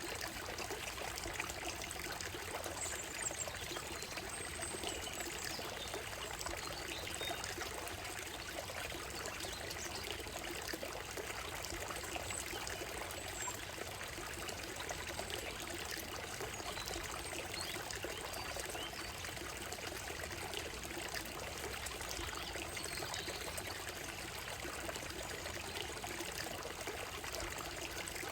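Shallow stream running over a gravel bed and stones: a steady trickling, babbling water sound. A few faint, short bird calls come through above it now and then.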